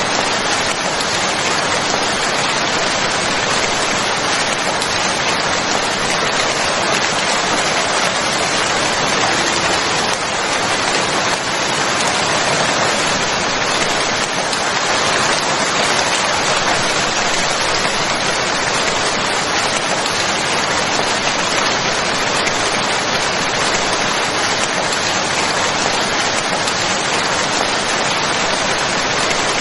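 Steady heavy rainfall: a dense, even hiss of raindrops falling on a surface, unchanging throughout.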